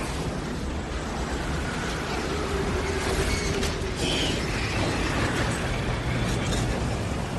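Roaring, rumbling storm sound effect, wind-like, with faint howling glides and a few sharp cracks about three to four seconds in.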